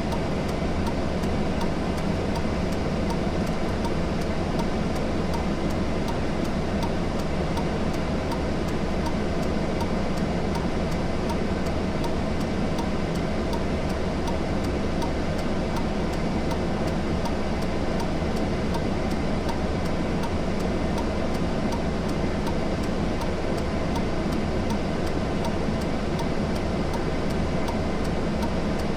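Steady rumbling road noise of a car driving, with faint ticks about three times a second.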